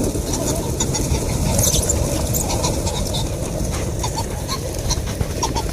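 Steady low rumble with faint, short bird chirps scattered through it.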